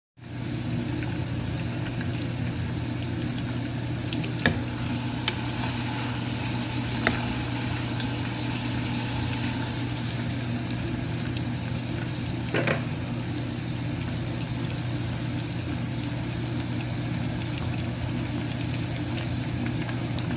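Steady sizzle of food deep-frying in hot oil, over a steady low hum, with a few sharp pops scattered through.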